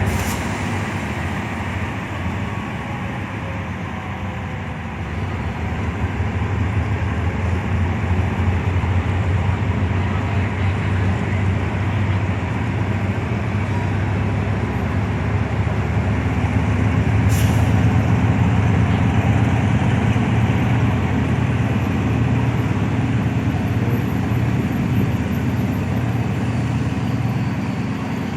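A heavy vehicle's engine running steadily with a low hum, growing louder a little after halfway. One brief sharp sound about two-thirds of the way through.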